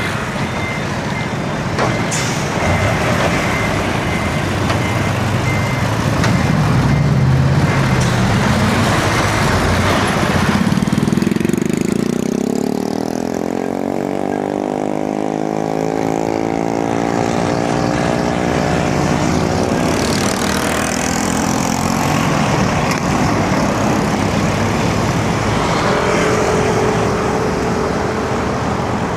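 Road traffic heard from a bicycle in a city street. A motor vehicle's engine accelerates past, its pitch rising steadily over several seconds midway. A repeated high beeping sounds in the first few seconds.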